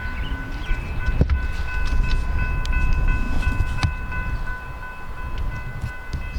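Metra commuter train pulling into a station: a low, steady rumble with a high whine of several steady tones over it, and a couple of sharp knocks about a second in and near the middle.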